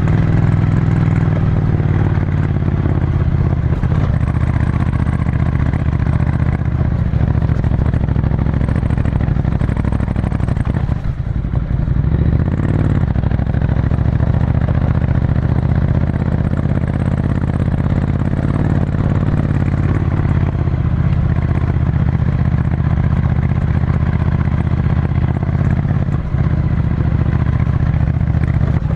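Ducati Scrambler Desert Sled's air-cooled L-twin engine running steadily under way through a full Termignoni exhaust, with a brief drop in engine sound about eleven seconds in.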